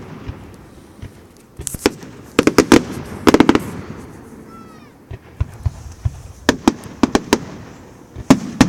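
Fireworks going off: clusters of sharp bangs and crackles, with a short falling whistle about halfway through and a run of quick cracks near the end.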